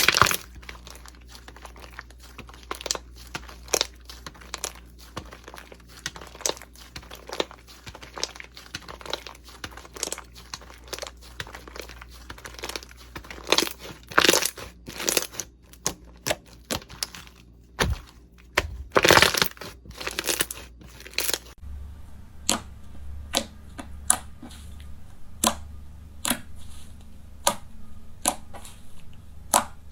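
Slime being squeezed and pressed by hand, giving a dense run of crackles, pops and crinkles. About two-thirds of the way through the sound changes to sparser, sharper single clicks.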